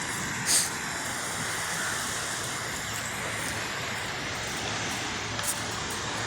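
Train approaching, a steady rumble under the noise of surf and wind, with a single sharp click about half a second in.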